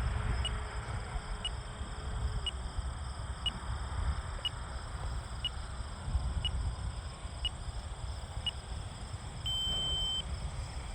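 RC transmitter flight-timer alarm beeping: short high beeps about once a second, then one longer beep near the end, signalling that the flight time is running out. Under it is a low rumble of wind on the microphone.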